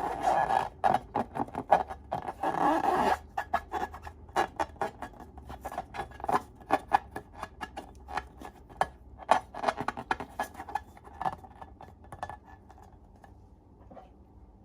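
Slime being squished and worked by hand, making rapid sticky clicks and crackling pops. They come thickest in the first few seconds and again near the end, then die away.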